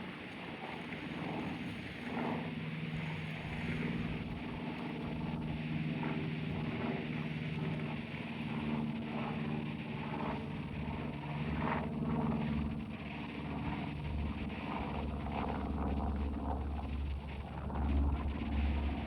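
Aircraft engines droning as a plane passes, with a steady hum of several tones over a wide rush of noise. A deep rumble builds in the second half and is loudest near the end.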